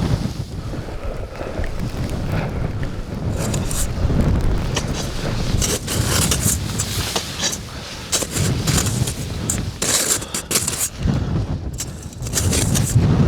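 Strong blizzard wind buffeting the microphone with a heavy rumble, overlaid by irregular sharp flapping and crackling noises.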